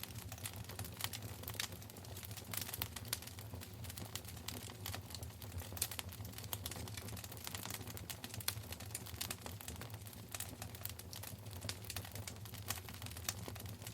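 Wood fire burning in a fireplace, crackling and popping with dense, irregular sharp snaps over a steady low rumble.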